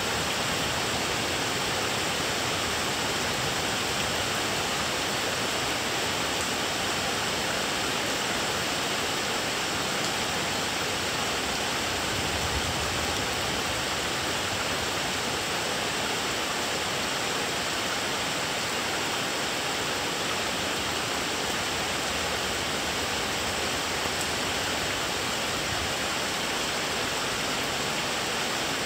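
Thunderstorm rain falling steadily, an even rushing hiss with no breaks.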